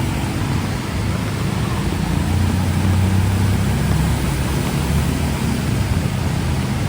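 Heavy rain falling steadily on a city street, with a motor vehicle's low engine sound swelling as it passes about two to four seconds in.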